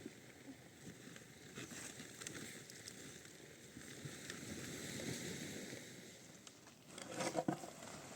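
Rustling and scraping noises of things being handled, with a quick cluster of knocks about seven seconds in.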